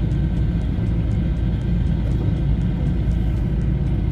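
Steady low rumble of a car driving slowly, with road and engine noise heard from inside the cabin.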